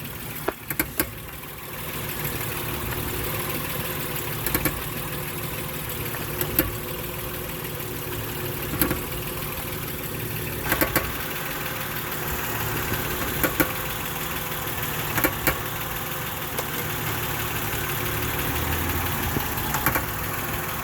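Honda Odyssey's 3.5-litre V6 idling steadily, with sharp, irregular clicks or knocks every couple of seconds.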